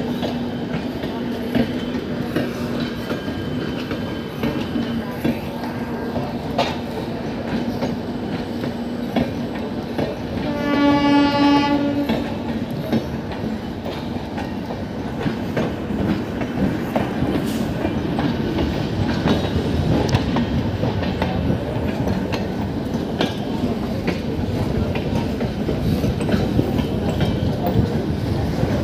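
Train running slowly, heard from aboard a coach: steady rolling noise with wheels clicking over rail joints. A train horn sounds once for about a second and a half, about eleven seconds in.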